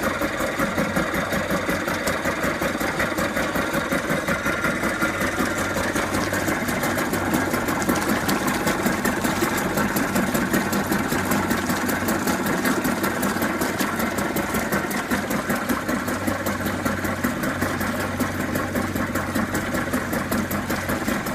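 Mercury 2.2 hp two-stroke outboard motor running steadily on test, a fast even buzzing patter of firing strokes at a constant speed.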